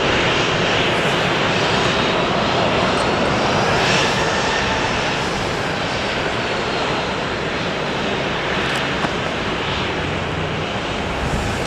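Jet noise from an Embraer E170 airliner's twin General Electric CF34 turbofan engines: a broad, steady rush with a faint high whine, slowly fading.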